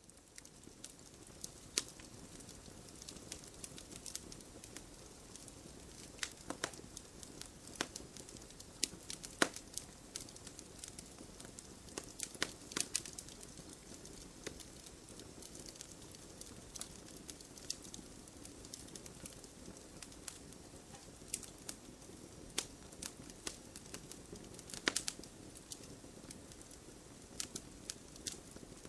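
Wood bonfire burning: irregular sharp crackles and pops over a steady low hiss and rustle of the flames, with a few louder snaps scattered through.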